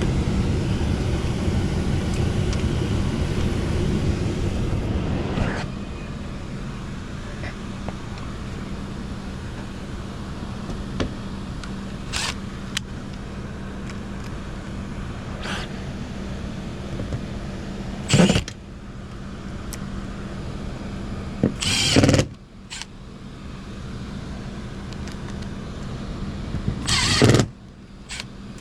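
Cordless power driver running in short bursts while driving screws, three of them louder and about a second long in the second half, over a steady machine hum that is louder for the first five seconds.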